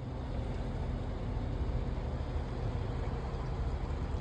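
Steady low engine rumble in the background.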